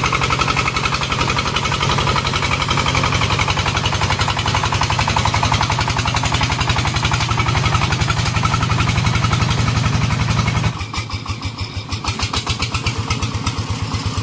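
Single-cylinder horizontal diesel engine of a Vietnamese công nông farm vehicle running hard with a rapid, even chugging while towing. About 11 s in the throttle comes off and it drops to a lower, quieter running speed.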